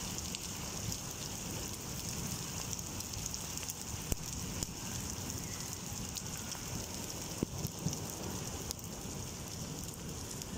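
Heavy rain pouring onto a flat concrete rooftop: a steady, dense hiss, with a few sharper taps standing out about four and seven and a half seconds in.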